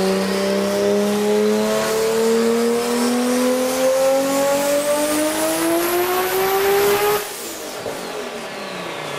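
Toyota Supra's 2JZ straight-six doing a full-throttle pull on a chassis dyno, the revs climbing steadily for about seven seconds. Near the end the throttle closes, the note drops and the revs fall away.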